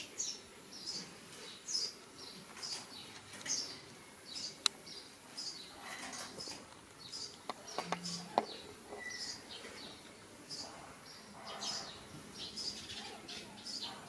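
A small bird chirping over and over, short high chirps about once a second, with a few light knocks around the middle.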